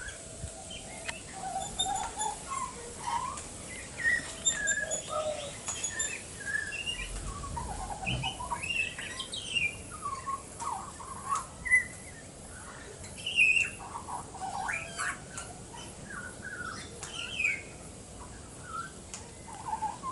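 Young pied butcherbird warbling: a rambling run of short whistled notes and slides, some rising and some falling, irregularly spaced. This is a fledgling testing out its new voice.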